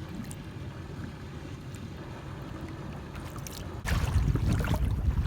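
Wind noise on the microphone and water around a kayak, a low steady rush that jumps suddenly louder about four seconds in as a gust hits.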